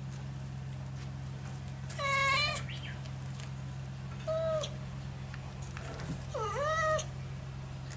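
Kitten meowing three times: a longer cry about two seconds in, a short one about four seconds in, and a rising-then-falling cry near the end. A steady low hum runs underneath.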